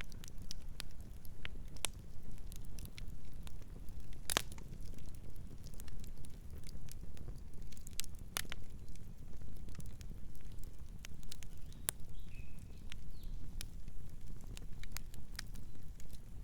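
Campfire burning, crackling with scattered sharp pops and snaps over a steady low rumble; two louder pops come about four and eight seconds in.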